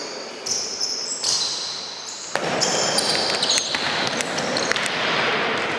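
Indoor futsal play in a reverberant hall: the ball being kicked and bouncing on the court, with short high squeaks of shoes on the floor. The general hall noise gets louder about two seconds in.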